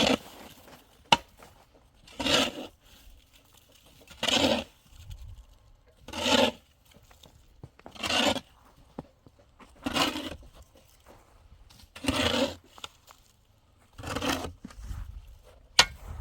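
Repeated scraping strokes, one about every two seconds and each lasting about half a second, eight in all.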